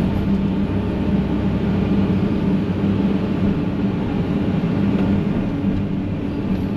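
Excavator's diesel engine running steadily while the machine works at digging out a multi-trunk stump.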